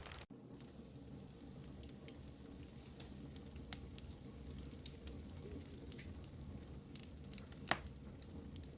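Wood fire crackling in a fireplace: a low steady hiss with scattered small pops and one sharper pop near the end. The sound drops out for an instant just after the start.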